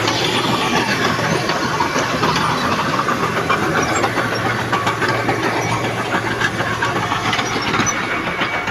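Diesel engine of heavy earthmoving machinery running steadily, with a continuous hiss and a rapid light metallic clatter over it.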